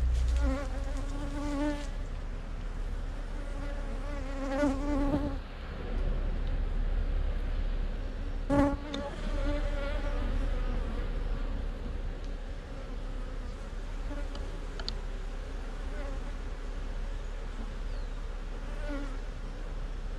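Honeybees buzzing close by, single bees passing near with a wavering hum that swells and fades several times, over a steadier background hum.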